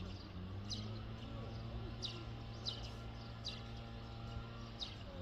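A small bird repeating a high chirp that falls sharply in pitch, about once a second, over a steady low hum.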